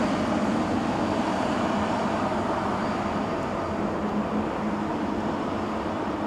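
Steady jet engine noise from a Boeing 777-300ER's GE90 turbofans, slowly fading, with a faint high whine on top.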